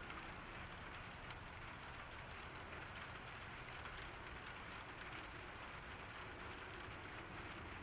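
Steady summer rain falling on a garden, a soft even hiss with faint scattered drop ticks.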